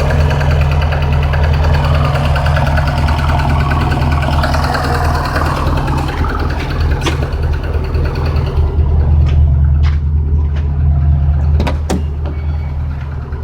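VAZ 1.5-litre eight-valve four-cylinder petrol engine running steadily with a loud low hum, with a few sharp clicks in the last few seconds.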